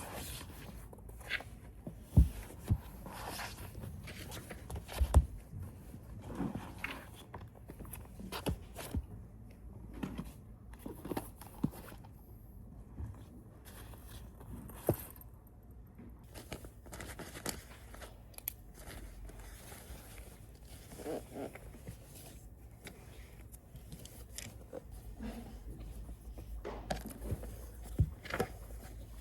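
Small handling sounds: irregular clicks, taps and rustles of objects being moved and set down, with a couple of louder knocks a few seconds in.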